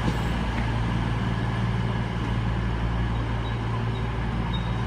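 Class 220 Voyager diesel multiple unit idling at the platform, its underfloor diesel engines giving a steady low hum.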